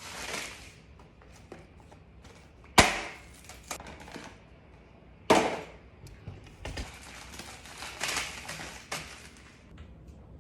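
Handling sounds of hard objects: two sharp clacks about two and a half seconds apart, each the loudest thing, with rustling and small clicks around them, as of containers and groceries being set down and moved about.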